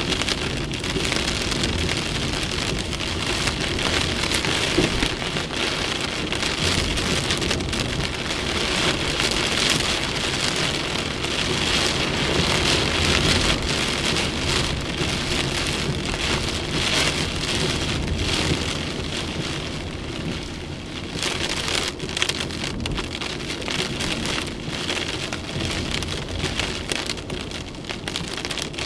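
Torrential rain pelting down in a violent thunderstorm, a dense, steady hiss of drops that eases a little after about twenty seconds.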